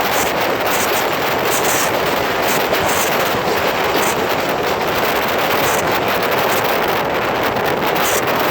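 Passenger train rolling past at speed: a steady, loud roar of wheels on rails.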